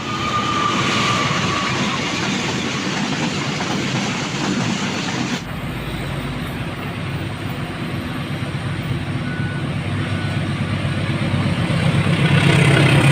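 A train passing close by: a steady rumble and rattle of wheels on the rails. It grows louder at the start, changes abruptly a little over five seconds in, and swells again near the end.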